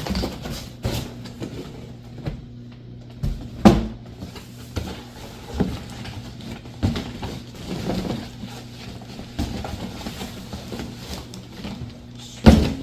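Handling noises from unboxing an RC truck: scattered knocks and rustles of packaging and parts being moved, with two louder knocks about four seconds in and near the end. A steady low hum runs underneath.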